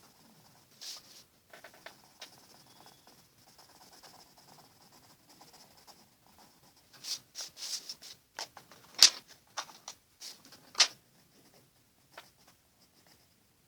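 Watercolour pencil scratching on paper in short strokes, faint at first and busier from about halfway, with two sharper, louder strokes near the middle.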